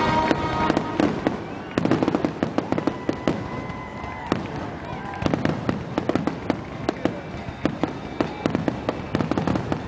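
Fireworks grand finale: a rapid barrage of overlapping bangs and crackling bursts, going on without a break.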